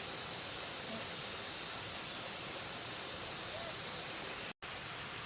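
Steady hiss of background noise with a faint, high, steady tone running through it; the sound drops out completely for a moment near the end.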